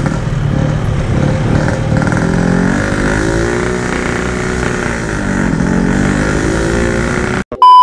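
Yamaha RX-King 135cc single-cylinder two-stroke engine and exhaust under way. The engine pitch climbs and sags as the rider works the throttle, and the bike struggles to pull, too weak to overtake. It cuts off abruptly near the end into a loud steady beep tone.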